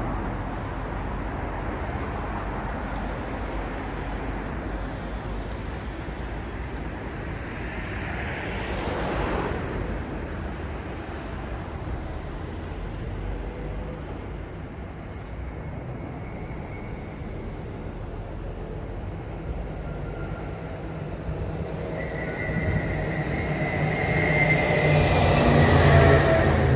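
City street traffic with a steady low rumble. A vehicle passes about nine seconds in, and near the end a louder heavy vehicle draws close with a high whine.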